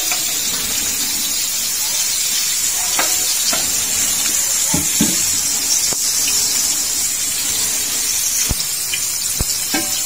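Chicken wings deep-frying in a pan of hot oil, a steady sizzle as they turn golden, with a few sharp clicks scattered through it.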